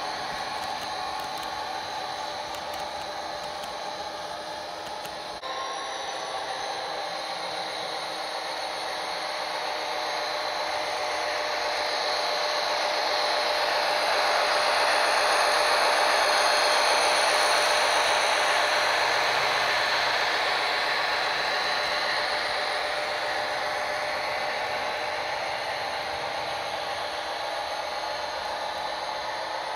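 Model train running: a steady mechanical whirr of motor, gears and wheels on the track, with a thin whine. It grows louder to its loudest about halfway through, then fades as it moves away.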